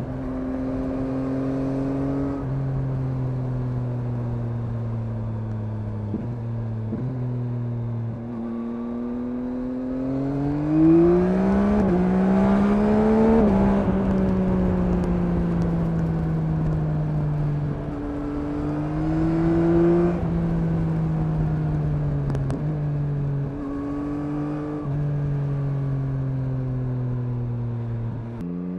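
2021 Yamaha MT-09's inline-three engine heard from the rider's seat, mostly cruising at steady revs with a few brief breaks in the note. About nine seconds in it revs up hard under acceleration, then drops away sharply at about thirteen seconds. A shorter rise in revs follows around twenty seconds.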